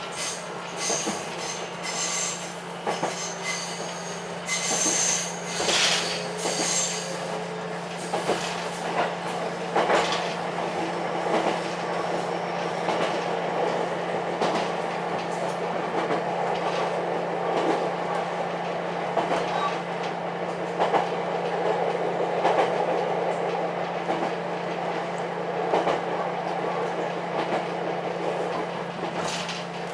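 Ichibata 7000 series electric railcar running along the track, heard from inside the car: a steady low hum over wheel-and-rail rumble with scattered clicks. Bursts of high wheel squeal come in the first several seconds.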